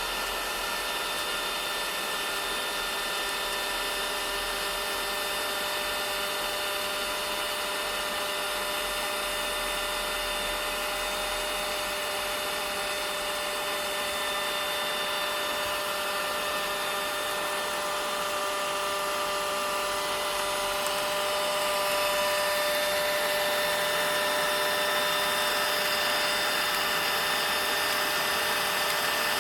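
Vacuum cleaner running steadily, a rushing whoosh of air with a whining motor note in it, getting a little louder about two-thirds of the way through.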